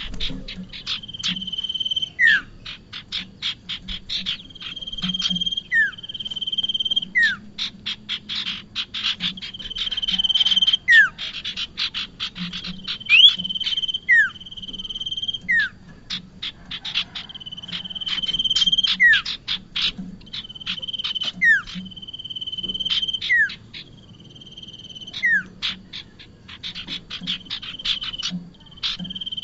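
Prenjak (prinia) calls: rapid trains of sharp repeated chip notes alternating with a held high note and short downward-sliding notes, the pattern repeating every few seconds.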